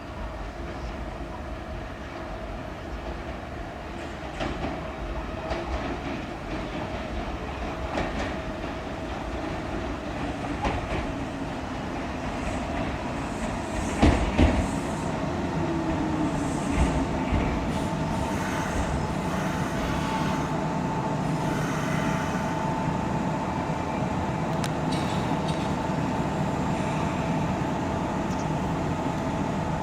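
Kintetsu electric train running through the station without stopping, its wheels knocking over the rail joints. A falling tone comes midway, and later a steady whine holds until the sound cuts off abruptly near the end.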